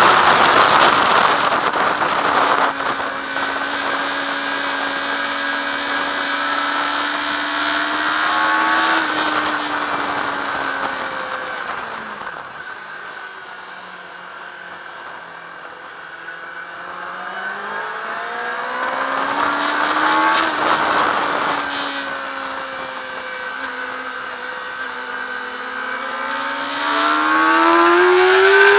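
Yamaha R6 inline-four engine heard from onboard with wind rush over the microphone. Its pitch falls as the bike slows, stays low and quieter through the middle, then rises again, with a brief drop about twenty seconds in and a steep climb near the end, where the engine and wind are loudest.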